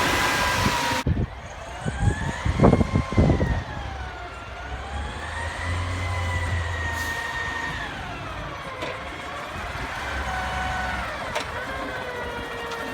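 Garbage truck running, with a high whine that slowly rises and falls over several seconds. Several heavy bangs come in a cluster about two to three seconds in.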